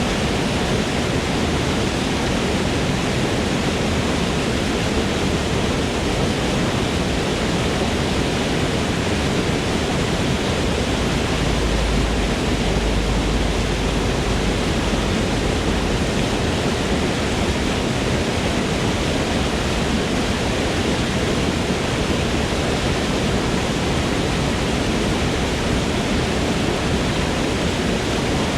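Forest waterfall: falling water crashing in a steady, full rush, with a slightly deeper rumble for a few seconds in the middle.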